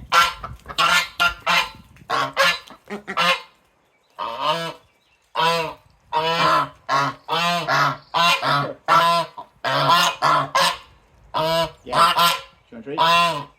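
Geese honking over and over, loud calls in quick runs of several honks with brief pauses between.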